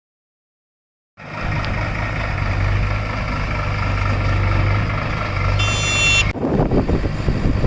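Heavy diesel engine of earth-moving machinery running steadily, coming in suddenly about a second in. A short high electronic beep sounds near the end, and then the sound changes abruptly to a rougher, noisier rumble.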